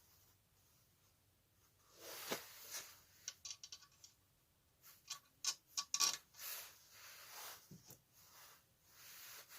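Small metal tools and engine parts being handled on a workbench: irregular clicks, taps and light clinks with some scraping, in clusters from about two seconds in.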